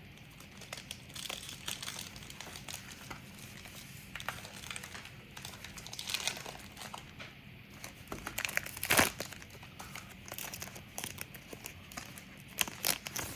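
A trading-card pack wrapper being torn open and crinkled in the hands, in irregular crackles with the loudest burst about nine seconds in and another cluster near the end.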